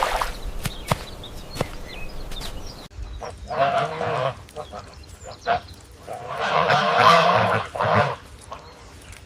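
A farm animal calling twice: a short call about three and a half seconds in, then a longer one lasting nearly two seconds. Before the calls comes a run of sharp clicks and knocks.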